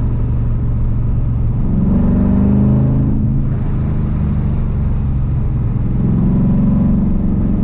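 LS V8 in a BMW E46 pulling under way, heard from inside the car: a steady low drone that climbs in pitch as it accelerates about two seconds in, drops off briefly just after three seconds, then pulls up again near the end.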